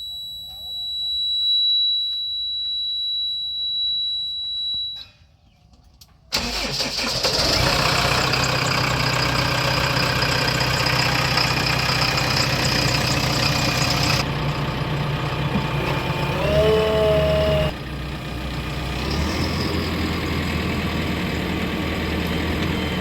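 A steady high electronic beep tone, then after a short gap a heavy diesel engine of a backhoe loader or tractor running loudly and steadily close by, with a brief whine about two-thirds through.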